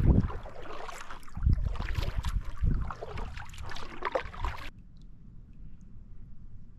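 Kayak paddling: the paddle splashing and dipping in the water, with low rumbling thumps. The sound cuts off abruptly about two-thirds of the way through, leaving a much quieter background.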